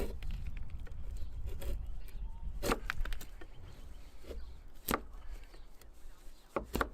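Blade strokes cutting into wood while an axe handle is carved by hand: a few sharp chopping knocks, a second or two apart with a close pair near the end, over a low steady rumble.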